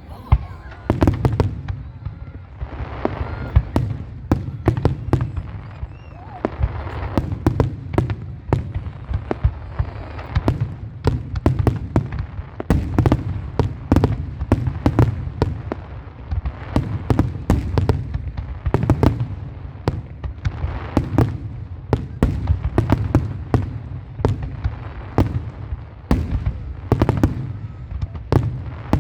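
Fireworks display: a continuous barrage of sharp cracks and bangs over low, rolling booms, with no break.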